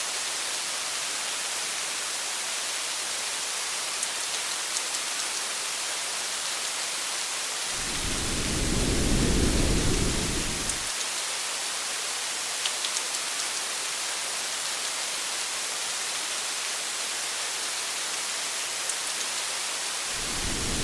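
Steady rain hiss with scattered drop ticks. A low rumble of thunder swells about eight seconds in and lasts about three seconds, and another begins near the end.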